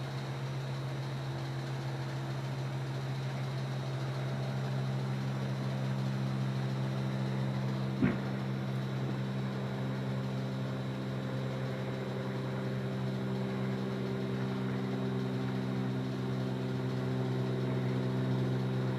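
Steady low mechanical hum with several held tones, with more tones joining in the second half. A single sharp pop cuts through about eight seconds in.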